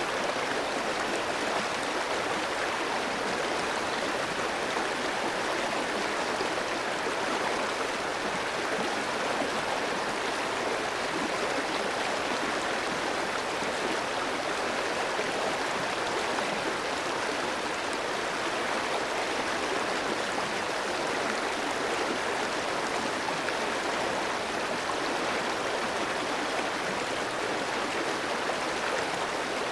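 Clear mountain stream flowing over rocks: a steady, even rush of running water.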